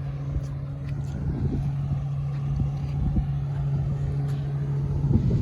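Watercraft engine running steadily with a low, even hum, over a low rumble and a few small knocks.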